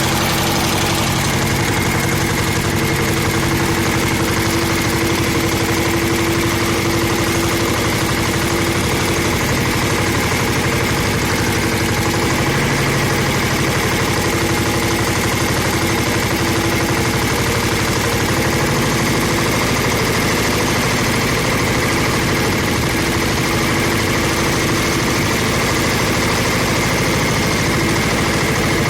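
Tractor engine running steadily under load while ploughing, a continuous even drone with a fast regular firing beat.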